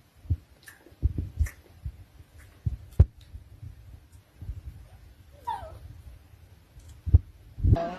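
A dog whimpering once, a short wavering cry about halfway through, among scattered knocks and thumps, with a sharp knock about three seconds in.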